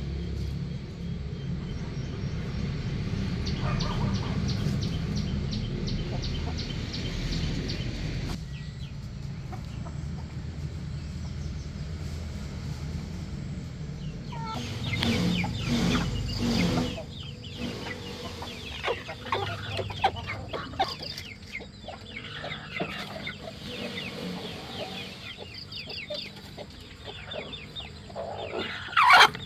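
Chickens clucking, with many short, high calls, over a low rumble during the first half. A brief loud call or knock comes near the end.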